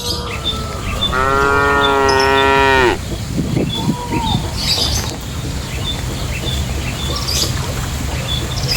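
A cow mooing once, a single long call of nearly two seconds starting about a second in.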